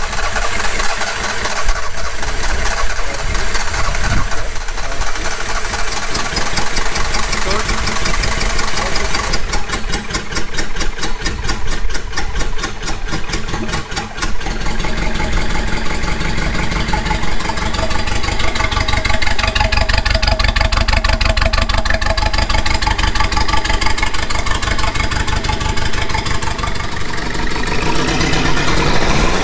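Freshly rebuilt Maruti Gypsy engine running on its first start after the rebuild, bare in a test frame out of the body, idling steadily. A stretch of rapid, even pulsing runs from about ten to fourteen seconds in.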